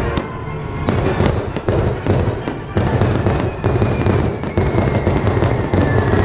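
Aerial fireworks bursting overhead: a quick, uneven string of bangs and crackles over a steady low rumble.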